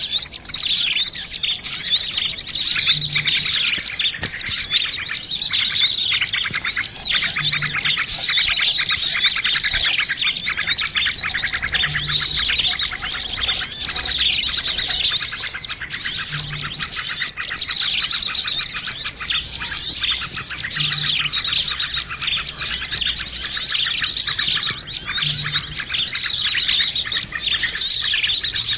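Dense chorus of many small birds chirping and trilling at once, with fast repeated notes overlapping throughout. It is a bird-lure (pikat) recording meant to draw small birds in.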